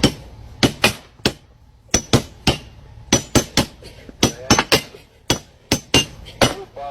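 A series of about twenty sharp knocks at an uneven pace of roughly three a second, some with a brief high ring.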